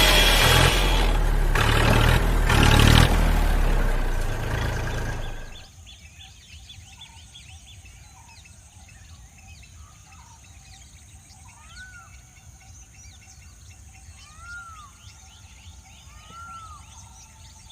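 A small engine runs loudly with a pulsing low note, then stops about five and a half seconds in. Afterwards birds chirp faintly, with a few clear arched calls.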